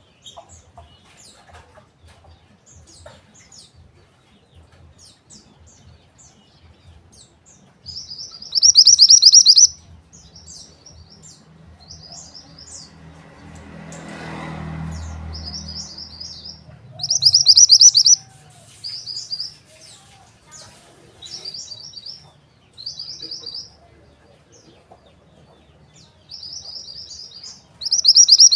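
Mountain white-eye (pleci) singing in loud bursts of rapid, high-pitched chirping trills, each a second or two long and repeated several times after a quieter first stretch of faint chirps. A low rumble swells and fades midway.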